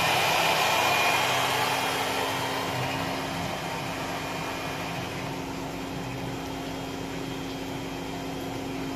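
Homemade table saw's motor and circular blade running steadily with a steady hum and whine inside a foam-lined plywood soundproofing box. Over the first few seconds the sound becomes quieter and duller as the box's lid is closed, then holds at the lower level, showing the enclosure's damping.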